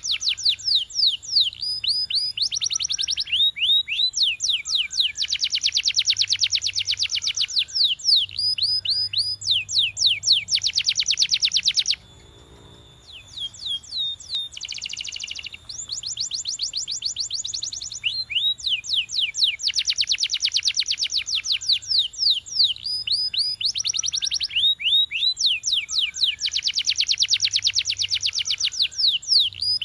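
Domestic canary singing: long fast trills of rapidly repeated downward-sweeping notes, in phrases of changing speed. About twelve seconds in, the song breaks off briefly and comes back with a short buzzy note.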